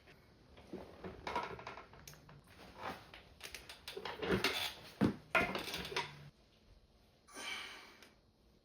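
A man's strained, forceful exhales and breaths during a set of dumbbell hammer curls, several bunched in the middle, some dropping in pitch like short grunts.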